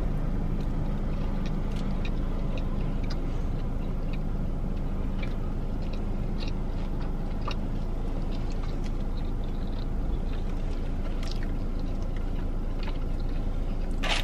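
A person chewing a mouthful of burger with crispy jalapeños and bacon, heard as faint scattered mouth clicks and crunches over a steady low hum inside the car.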